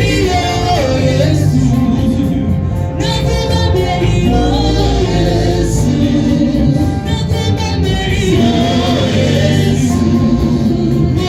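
Gospel music: a choir of men and women singing over instrumental backing with a steady bass.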